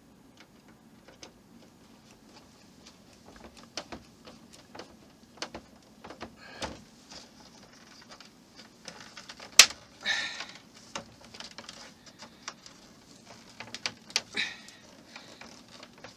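Small model-kit parts being handled and fitted by hand: scattered light clicks and taps, a sharp click about nine and a half seconds in, and brief scraping just after it and again near the end.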